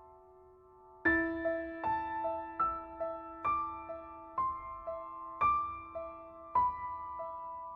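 Slow, soft piano music: a fading chord, then from about a second in single notes struck one after another over a held low note.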